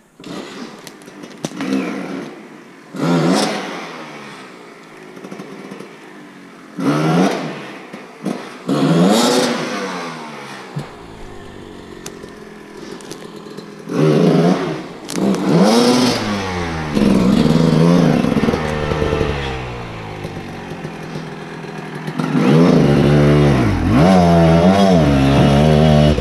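Enduro dirt-bike engine revved hard in short bursts, pitch rising and falling with each blip of the throttle, then held at high revs with wavering pitch for the last ten seconds as the bikes labour up a steep forest slope.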